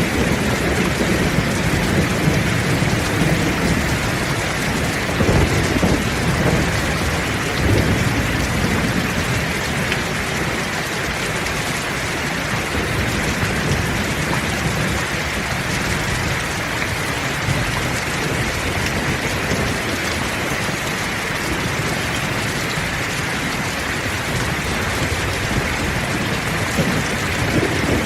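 Heavy rain falling steadily, with low rolls of thunder rumbling in the first several seconds and again near the end.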